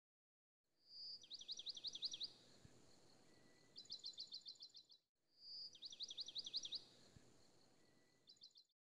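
A bird singing: a short whistle, a run of quick sweeping chirps, then a fast trill. The phrase comes twice, the second time about halfway through, over a faint hiss.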